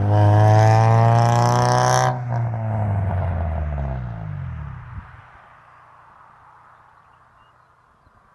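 Honda Civic Si-R's K20A3 2.0-litre four-cylinder, running a header, no catalytic converter and a Vibrant muffler, held at high rpm in third gear as the car passes. About two seconds in the sharp top end cuts off, then the engine note slides steadily down in pitch and fades away over the next few seconds.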